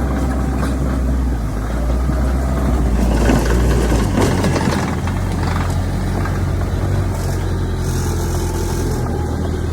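Heavy diesel engine of earthmoving machinery running steadily under load. Its low drone changes pitch about four to five seconds in, with a stretch of rougher mechanical noise just before.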